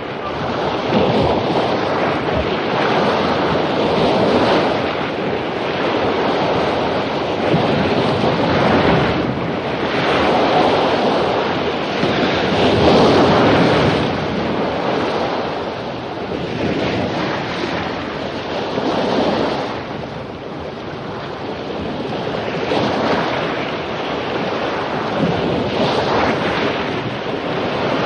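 Surf breaking on a beach after a storm: a continuous rush of waves that swells and eases every few seconds, with wind noise on the microphone.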